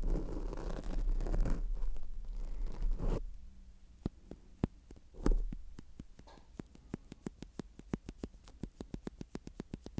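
ASMR triggers worked directly on a sensitive microphone: about three seconds of close scratchy rubbing with a deep rumble from contact with the mic, then a run of crisp little clicks that speed up to about four or five a second.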